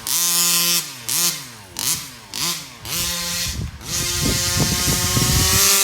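The Rovan FT360R RC truck's 36cc two-stroke engine revving in short throttle blips, each rising and falling, then held on a longer pull whose pitch climbs slowly, with rough low rumble underneath partway through.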